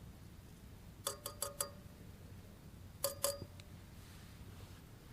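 Light metallic clinks of camp cookware being handled, each with a short ring: four quick clinks about a second in, then two more around three seconds.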